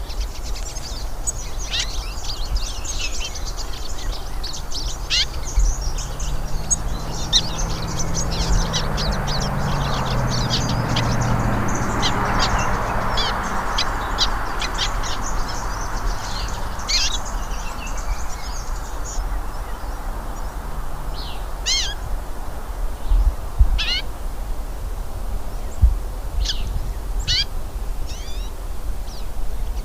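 Small songbirds chirping and twittering in many short high calls, busiest through the first two-thirds and thinning out towards the end. Around the middle a swell of low rumbling noise, dropping in pitch, rises and fades under the birds.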